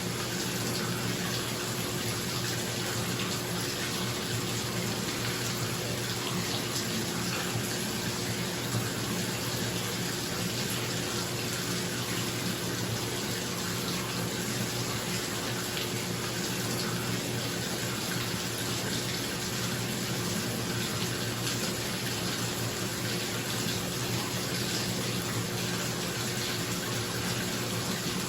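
Bathtub tap running steadily into the tub, a constant rushing of water, with a bathroom exhaust fan humming under it in a small tiled room.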